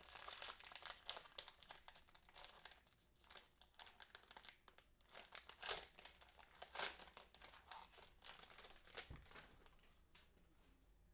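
Cellophane trading-card pack wrappers crinkling and tearing as packs are handled and opened, in irregular crackling bursts that die away near the end.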